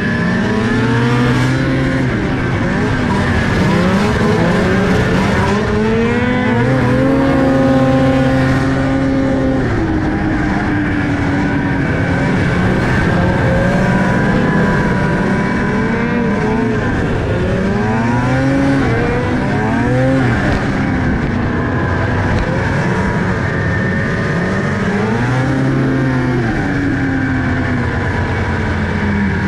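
A motor vehicle's engine running hard, its revs climbing and falling again and again with stretches held steady in between, over a constant rushing noise.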